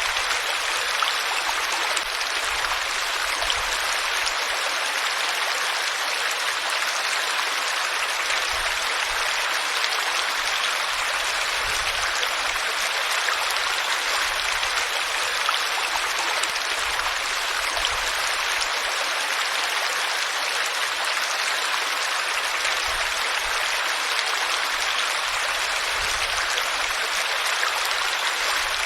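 Flowing water, a stream or small cascade, running steadily as an even rushing hiss.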